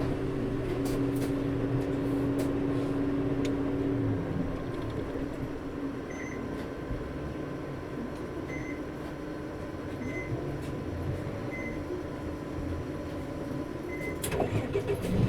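Inside a Nissan Diesel (UD) Space Runner RA city bus: the diesel engine and its coupling fan hum steadily, then the engine note stops about four seconds in and the cabin goes quieter. After that a short beep repeats about every two seconds, with a clatter near the end.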